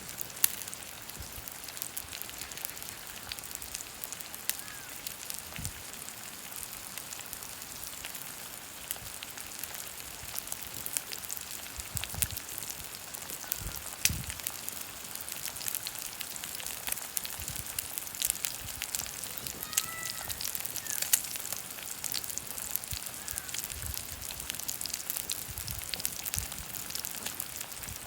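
Oak firewood fire burning, with a steady hiss and many sharp crackles and pops. A few faint short chirps are heard now and then.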